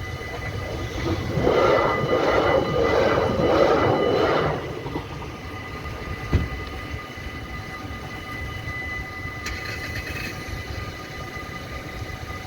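Train passing a Dutch level crossing, loudest for about three seconds near the start and then fading to a lower rumble, with one sharp knock in the middle. Steady ringing tones run throughout, as from the crossing's warning bells.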